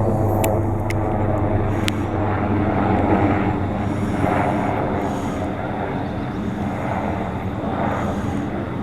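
Steady engine drone of an unseen aircraft overhead, a low hum that swells slightly about three seconds in; the listener takes it for a helicopter.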